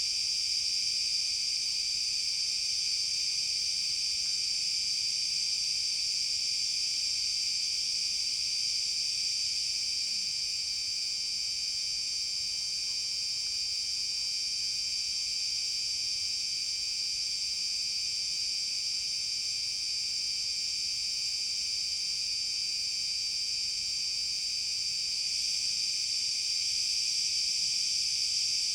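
Steady chorus of insects: a continuous high-pitched drone made of several layered tones, dipping slightly in loudness around the middle and swelling again near the end.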